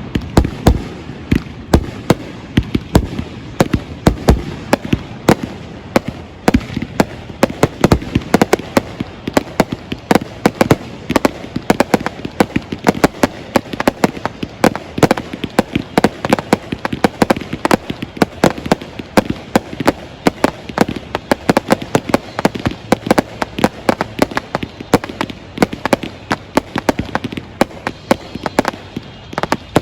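Fireworks display going off: a dense, irregular run of sharp bangs and crackles, several a second.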